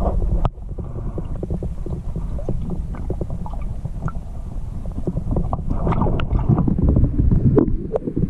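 Wind buffeting the microphone as a low rumble, with scattered small knocks and clicks that get busier in the last few seconds. The sound drops abruptly about half a second in.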